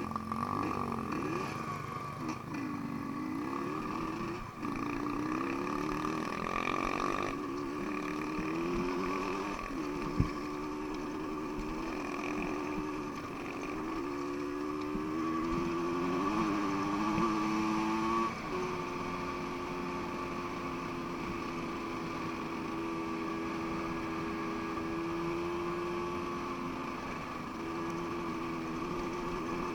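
Dirt bike engine running, its pitch rising and falling with the throttle for the first half, then holding steadier. There is one sharp knock about ten seconds in.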